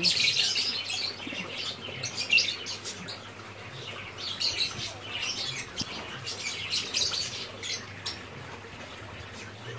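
Birds chirping in quick, irregular high calls, loudest at the start and again about two seconds in.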